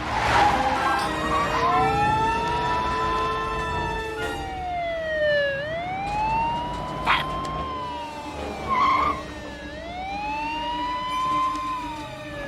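Police car siren wailing, its pitch rising and falling slowly about every four seconds, with a sharp click about seven seconds in.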